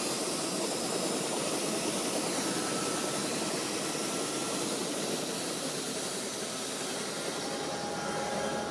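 Helicopter in flight: a steady rush of turbine engine and rotor noise.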